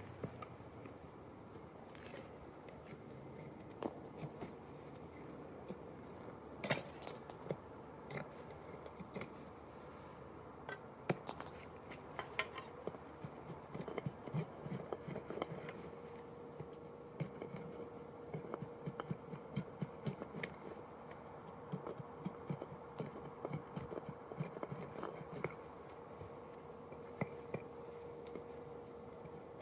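Irregular light clicks, taps and scrapes of small objects being handled, with a faint steady hum that comes in about halfway through.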